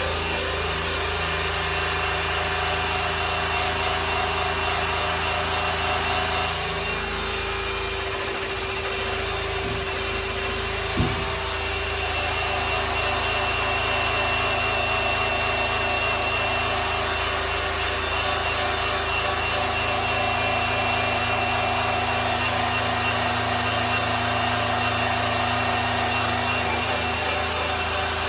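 Electric polisher running steadily on a grand piano's finish, a motor hum over the rubbing of the pad on the surface. The tone shifts about six or seven seconds in, and there is one short knock about eleven seconds in.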